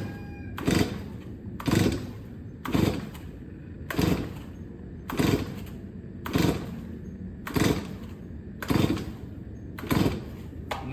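Stihl 024 chainsaw's recoil starter cord being pulled again and again on full choke, about nine even pulls a little over a second apart, each a short rushing whirr of the cord and the engine turning over. The engine never fires or pops.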